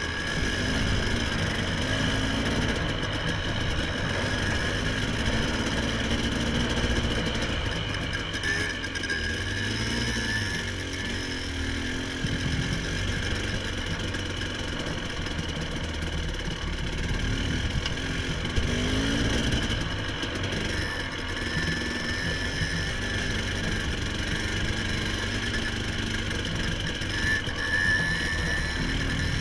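A vehicle engine running steadily, its revs rising and falling a few times.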